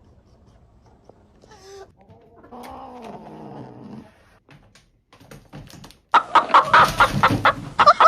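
An animal calling: a short call, then a drawn-out falling call, then, about six seconds in, a loud burst of rapid squawking calls.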